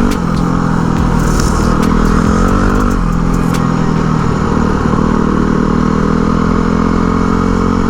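Dual-sport motorcycle engine running at a fairly steady speed while riding, with a few light clicks and rattles.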